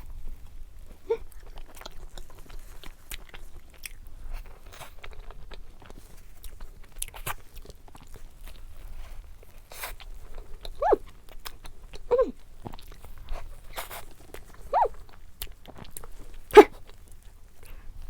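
Close-up chewing and mouth sounds of someone eating a soft cream-filled doughnut. About a second in, and several times in the second half, a pet gives short high cries that fall in pitch. There is one sharp click near the end.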